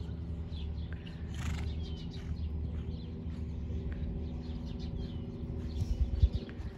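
Small birds chirping in short repeated calls over a steady low hum, with a few louder low thumps about six seconds in.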